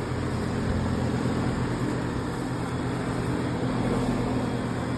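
Outdoor heat pump condenser unit running in cooling mode: a steady hum from its compressor and fan, with a rushing of air, described as purring.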